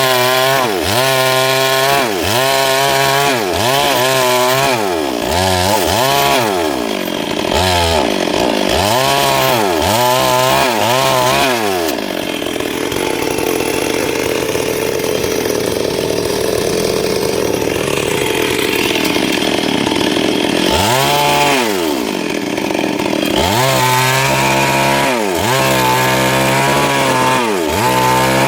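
Stihl MS382 two-stroke chainsaw cutting wood, its engine pitch rising and falling about once a second. For several seconds in the middle it runs steadily in the cut, then goes back to rising and falling near the end.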